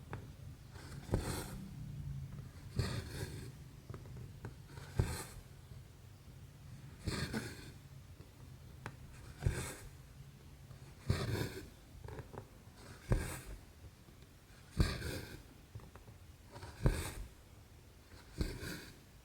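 Thread being pulled through 11-count cross stitch fabric with a needle: about ten short rasping swishes, one every two seconds or so, in a steady stitching rhythm.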